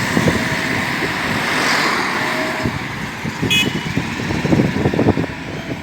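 Backhoe loader diesel engine running with a rough, uneven rumble, and one short high beep about three and a half seconds in.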